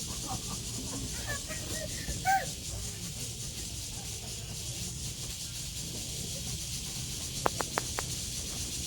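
Outdoor ambience: a steady high hiss over a low rumble, with faint distant voices early on and four quick clicks near the end.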